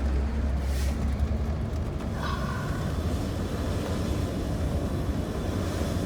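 Steady low rumble of engine and road noise, heard from inside a moving vehicle's cab, with a brief faint high tone about two seconds in.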